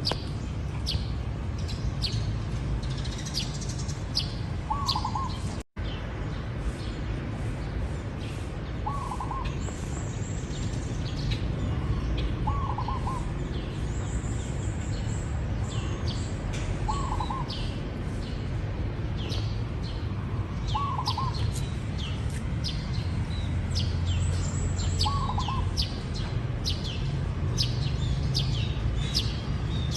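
Zebra dove cooing, a short trilled phrase about every four seconds, over a constant chatter of high chirps from other small birds. The sound cuts out for an instant about six seconds in.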